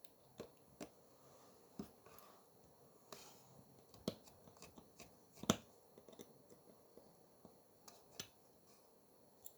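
Scattered light clicks and taps of small tools and parts being handled during a watch repair, irregularly spaced, the sharpest about five and a half seconds in.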